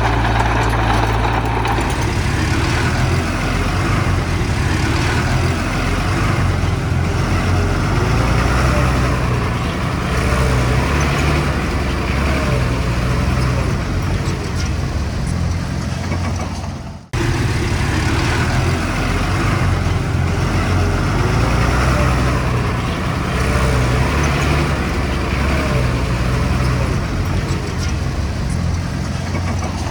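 Heavy earthmoving machinery's diesel engine running steadily under work, a deep rumble with a wavering higher whine over it. The sound cuts out for an instant a little past halfway, then resumes.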